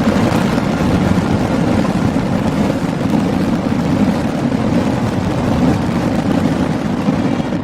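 Dense fireworks barrage, many bursts merging into one continuous low rumble with no separate bangs standing out.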